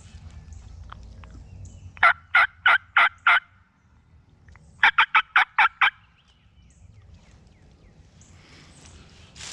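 Hand-operated turkey call sounding a run of five loud yelps, then after a short pause a quicker run of about seven yelps, calling to a gobbling tom.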